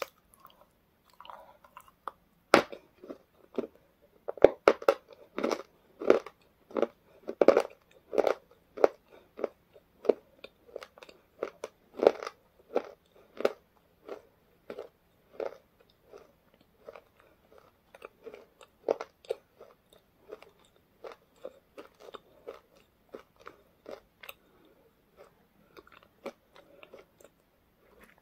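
A person biting into a small white triangular snack and crunching it close to a clip-on microphone: a sharp bite about two and a half seconds in, then a run of loud crunches as she chews, fading into softer chewing in the second half.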